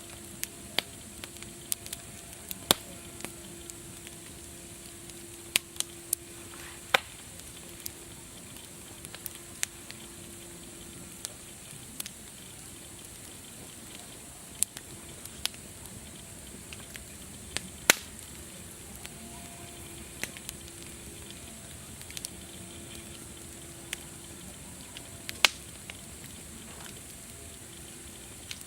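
Campfire crackling: a steady hiss with irregular sharp pops and snaps, a few much louder than the rest, the loudest about eighteen seconds in.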